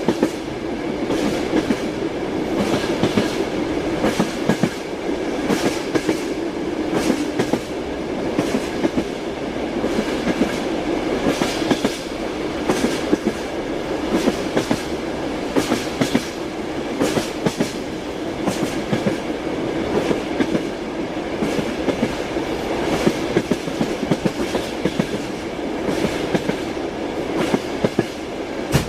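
Train wheels clattering over rail joints: a steady rolling rumble with sharp clicks coming in regular clusters.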